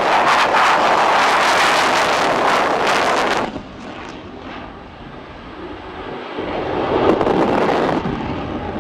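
Engine noise of an aircraft flying an aerobatic display: loud for the first few seconds, dropping off suddenly about three and a half seconds in, then swelling again near the end.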